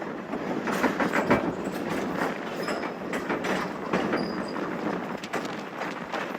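Train rolling along the track, its wheels clattering over the rail joints with irregular knocks and a faint high squeal.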